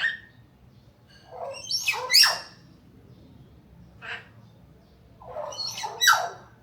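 Hill myna calling in a series of loud, harsh calls with sliding pitch: a short call at the start, a longer two-part call about two seconds in, a brief call near four seconds, and another two-part call about six seconds in.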